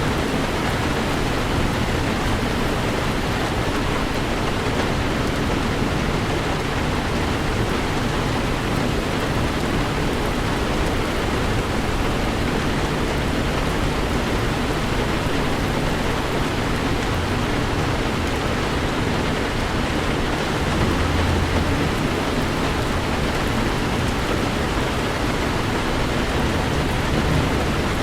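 Heavy rain falling steadily on a Toyota 4Runner driving through a downpour, with a constant low road rumble underneath.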